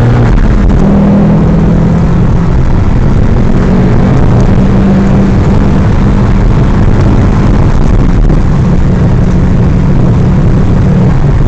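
Audi Sport quattro's turbocharged five-cylinder engine running steadily under way, heard loud from inside the cabin, with road and wind noise underneath. The engine note holds a fairly even pitch, easing a little lower about eight seconds in.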